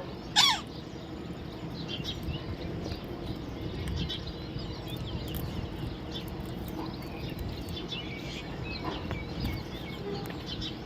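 Baby parrot giving one short, loud, falling squawk about half a second in, followed by faint scattered chirps over a steady low background hum.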